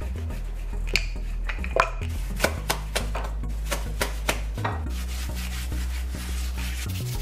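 Wooden rolling pin knocking and rolling on a wooden board as roti dough is rolled out, giving a string of sharp clacks through the first few seconds, over background music with a low bass line.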